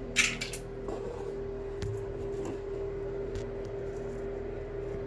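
A metal tool scrapes briefly against tile just after the start, cutting out old silicone sealant, then a steady hum carries on with a few faint light taps.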